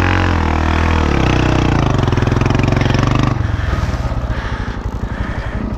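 160 cc motorcycle engine running at high revs in heavy riverbed sand, then dropping to a low, evenly pulsing idle a little over three seconds in.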